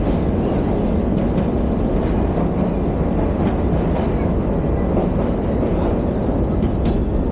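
Passenger train running on rails, heard from inside the driver's cab: a steady rumble with a few faint clicks from the wheels.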